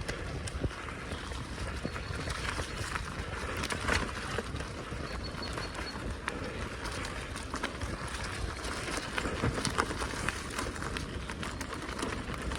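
Bicycle being ridden along a forest track: steady tyre and ride noise with many small clicks and rattles over the bumps.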